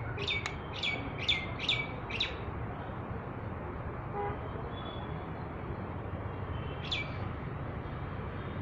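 A small bird calling: a quick run of five short chirps, each falling in pitch, in the first two seconds, and one more near the end, over a steady low background rumble.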